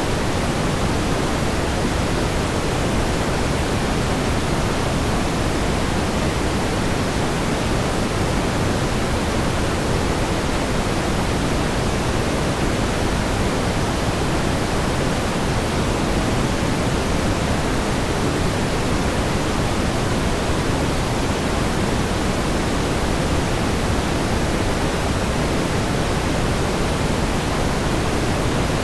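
Steady pink noise: an even, unchanging hiss with more weight in the low end than the high.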